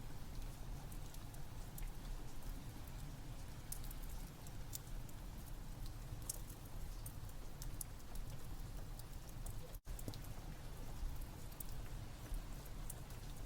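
Steady rain mixed with a fireplace crackling, with frequent small sharp pops over the hiss. The sound cuts out for an instant about ten seconds in.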